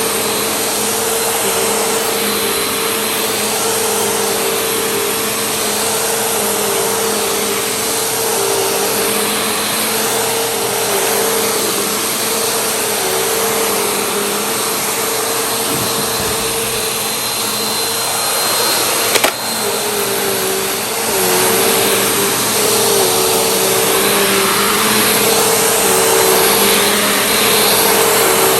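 Vacuum cleaner running continuously, its motor tone dipping briefly over and over as it works. A single sharp knock comes about two-thirds of the way through, and the sound gets louder shortly after.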